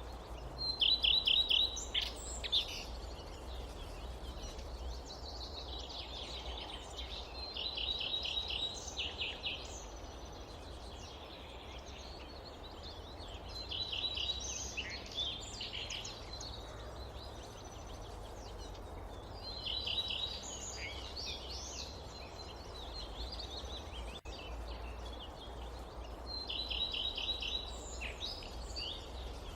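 A songbird repeating a short phrase of rapid, evenly spaced high notes about every six seconds, five times, over a steady low forest ambience.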